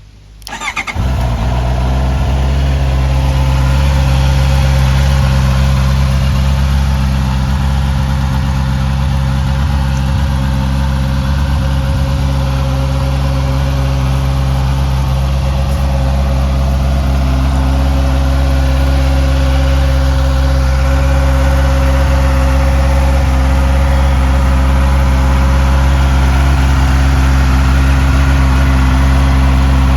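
Honda CB650R's inline-four engine starting, catching within the first second, then idling steadily.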